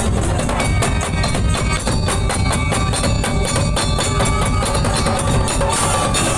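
Madurese daul music played loud: a dense, fast beat of drums and struck percussion with a few held melodic tones over it.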